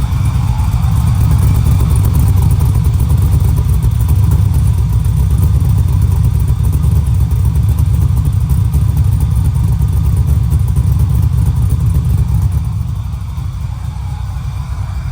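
LS3 6.2-litre V8 engine of a 1987 El Camino running with a deep, steady rumble, easing a little in loudness near the end.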